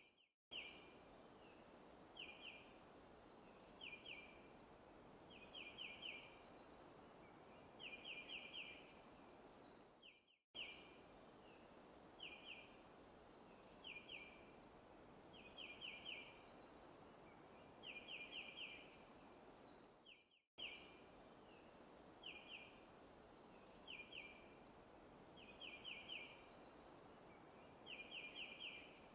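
Faint looped forest ambience: a bird chirping in short bursts of two to four quick, high notes every second or two over a steady soft hiss. The same pattern repeats about every ten seconds, with a brief dropout each time the loop restarts.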